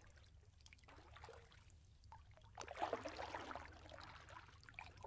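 Faint stream water trickling and lightly splashing, a little more from about halfway through.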